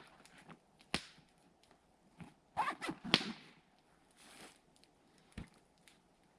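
Short swishes and sharp clicks of gear being handled, loudest in a quick cluster near the middle, with a single low thud near the end.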